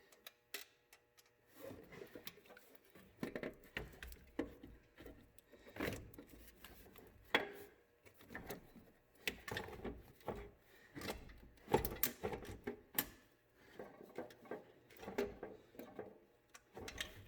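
Irregular clunks, knocks and scrapes as a 2008 Kia Sportage's alternator is worked by hand into a cramped engine bay, the unit bumping against the engine as it is forced toward its mount. The knocks start about one and a half seconds in and come unevenly, with one louder clunk around two-thirds of the way through.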